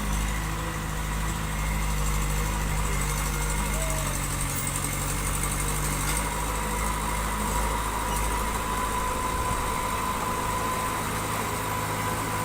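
Diesel engine of heavy construction machinery running steadily at a low, even speed, with a thin, steady whine above the engine note.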